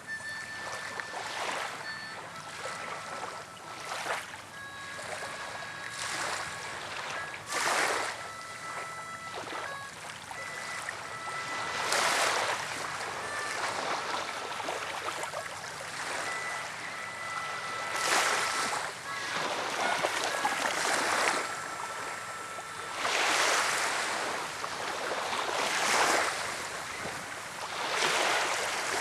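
Gusty wind, rising and falling in loud surges every few seconds, with faint steady high tones coming and going.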